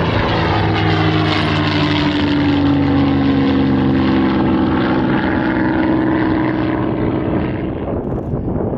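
Piston-engined WWII fighters flying past, their propellers and engines giving a loud, steady note that slowly drops in pitch as they pass, then fades near the end.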